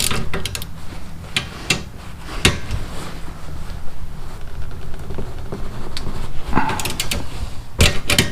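Ratchet wrench with a 14 mm socket clicking in repeated short strokes while turning a rear brake caliper bolt.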